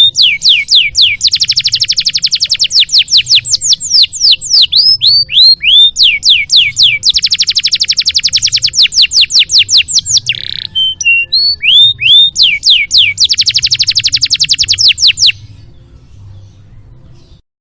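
Domestic canary singing: loud, rapid trills of repeated falling whistled notes strung into several phrases, the song stopping about fifteen seconds in. A faint low hum runs underneath.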